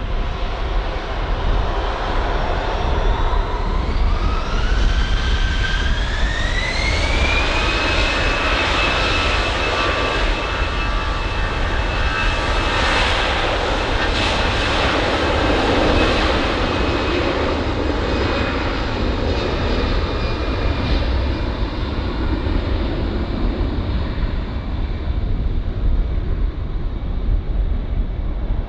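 Jet airliner's engines spooling up with a rising whine that levels off into a steady high tone over a loud roar. The roar builds to a peak near the middle and eases off toward the end.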